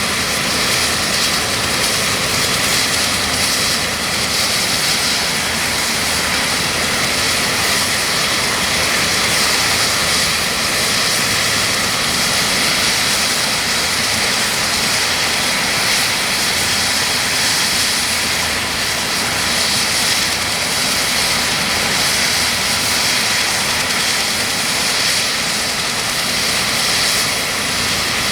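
UH-60M Black Hawk helicopter's twin T700 turboshaft engines running, a steady turbine whine over a loud rushing noise.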